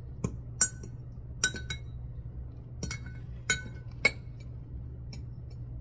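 Light clinks of glass against glass or a utensil, about eight irregular taps with a short ring, as the last of the egg mixture is tapped out into a glass bowl.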